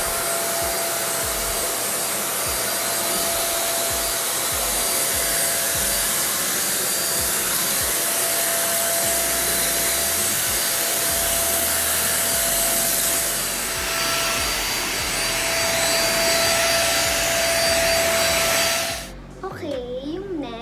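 Deerma vacuum cleaner running, a loud, steady rush of air with a constant whine. Its sound shifts about two-thirds of the way in, and the motor cuts off abruptly shortly before the end.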